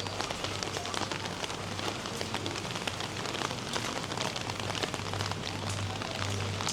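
Steady rain falling, with many individual drops ticking sharply against nearby surfaces and a low steady hum underneath.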